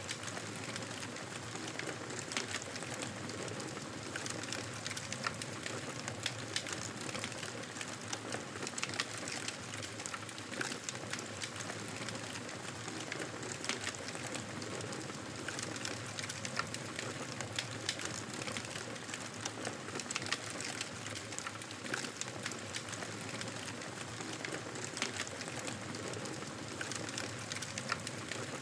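Bonfire burning, with irregular sharp crackles and pops of the burning wood over a steady hiss of the flames.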